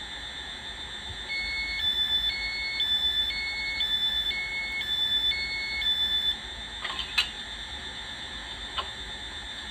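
Hornby Class 800 model's DCC sound decoder playing a two-tone warning that alternates high and low about twice a second for some five seconds, typical of the train's door-closing alarm, over a steady high whine. Two sharp clicks follow, about a second and a half apart.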